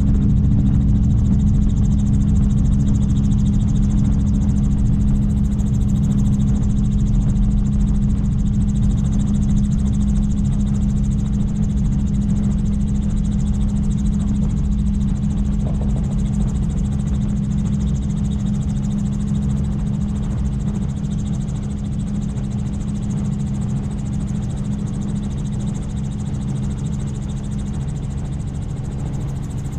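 Helicopter running: a loud, steady drone with a strong low hum, slowly getting a little quieter.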